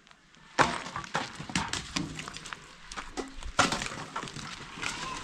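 Irregular sharp knocks and clatter of material being broken apart during demolition, starting about half a second in and growing busier from about three and a half seconds.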